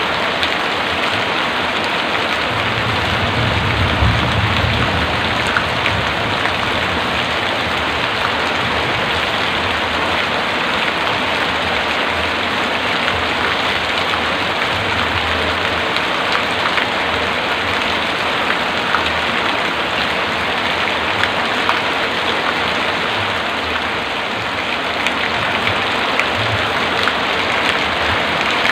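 Heavy rain falling steadily, a dense even hiss of drops, with a brief low rumble about three to five seconds in.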